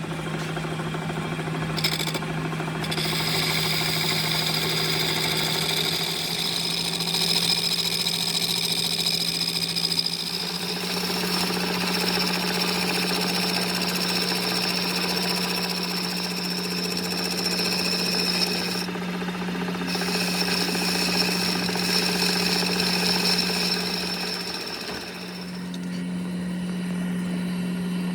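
A motor-driven workshop machine running steadily, with a low hum and a high whine. The whine drops out briefly about two-thirds of the way through, and the hum dips for a moment near the end.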